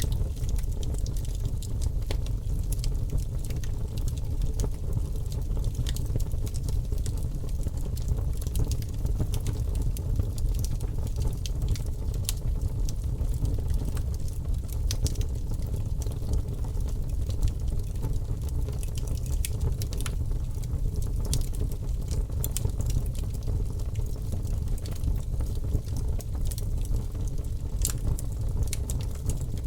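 Wood fire in a fireplace crackling: frequent sharp pops and snaps over a steady low rumble.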